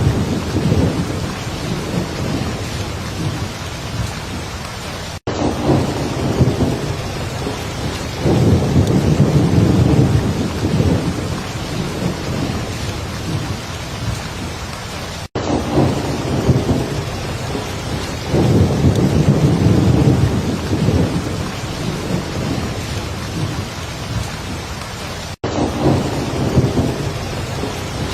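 Heavy rain falling steadily, with low rolling thunder swelling and fading several times. The sound cuts out for an instant three times, about ten seconds apart.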